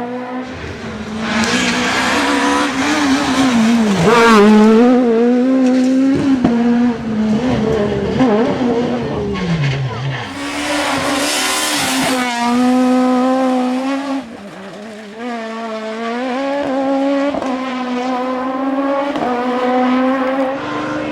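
Suzuki Swift S1600 rally car's 1.6-litre four-cylinder engine at high revs under hard driving, its pitch climbing and dropping through gear changes and falling steeply as it slows about nine seconds in, with some tyre squeal. A loud hissing noise joins it for a couple of seconds after the drop before the engine settles back to a high, steady note.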